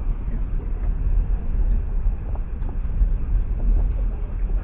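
Steady low rumble of a passenger train carriage running along the track, heard inside the carriage, with a few faint clicks.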